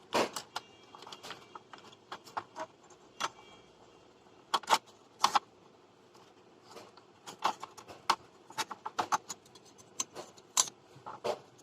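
Irregular small clicks and taps of parts being handled and set back into place inside an LED TV during repair, with a few louder clicks now and then.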